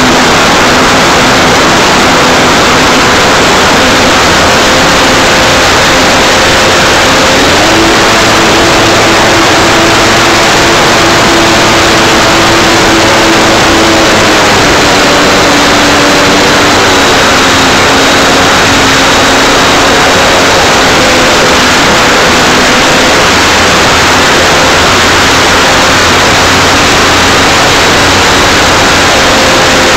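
Electric motor and propeller of an Art-Tech Cessna 182 radio-controlled model plane in flight, heard from a camera on its nose: a loud rush of air and propeller noise over a motor whine. The whine steps up in pitch about eight seconds in and drops back between about fourteen and seventeen seconds, as the throttle changes.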